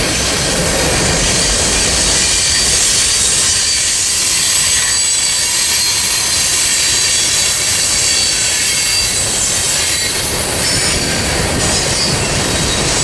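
Freight train cars rolling past steadily, with a low rumble and a continuous high-pitched squeal and hiss from the steel wheels on the rails.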